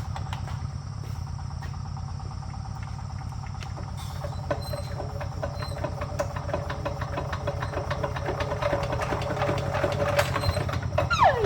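Hand-cranked farm tractor engine running after being started by hand crank, a fast, even knocking beat that grows louder over the last few seconds. A falling whine sounds near the end.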